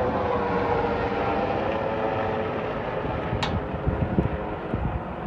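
Iraqi military aircraft passing overhead: a steady engine drone whose pitch slowly falls as it goes by, with a few low thumps on the microphone about four seconds in.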